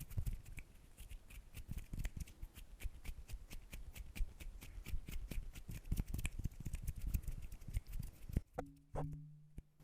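Hands making close-up ASMR sounds: a fast, irregular run of crackly clicks and taps that stops near the end. A brief low steady hum follows.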